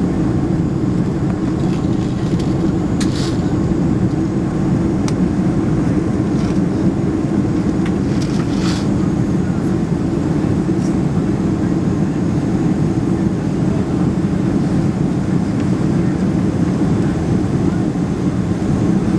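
Steady roar of airflow and jet engines inside the cabin of a Boeing 767-300 airliner in flight, with a few faint clicks.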